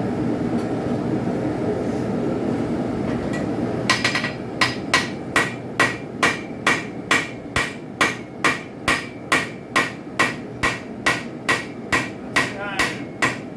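Hand hammer striking a railroad spike on an anvil in a steady rhythm of about two blows a second, each blow with a bright ring. The hammering starts about four seconds in. Before it there is only a steady rushing noise.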